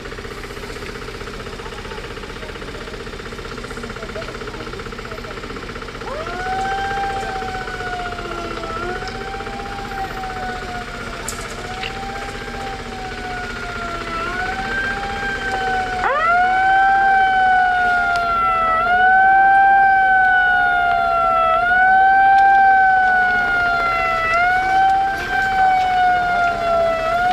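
Emergency-vehicle siren wailing in repeated cycles, each a quick rise and a slower fall, about every second and a half, starting about six seconds in over a steady engine-like rumble. About ten seconds later a second siren joins, the two cycles overlap, and the sound grows louder.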